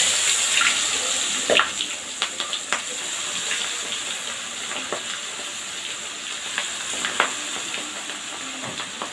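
Spiced pieces of leftover coconut-milk chicken curry deep-frying in hot oil in a wok, just lowered in: steady sizzling with scattered crackles and pops, easing off a little after the first couple of seconds.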